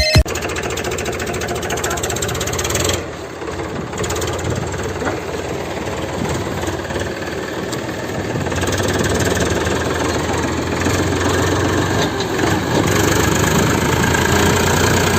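Small engine running steadily with a rapid even firing rhythm. It drops briefly about three seconds in, then runs a little louder from about halfway.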